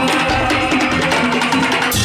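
Madurese daul (tong-tong) music: a percussion ensemble of drums and wooden knocking beats playing a busy rhythm under held melodic notes.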